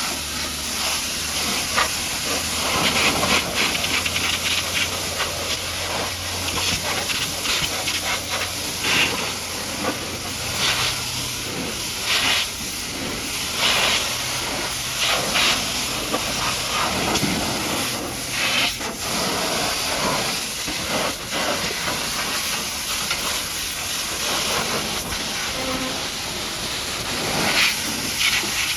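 High-pressure water jet hissing against a mud-caked dump truck, surging louder and softer as the spray sweeps across surfaces. A low steady hum runs underneath and stops about two-thirds of the way through.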